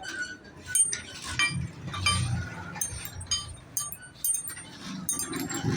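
Repeated sharp metallic clinks and taps, irregular, each with a brief high ring, as of metal tools being handled against metal.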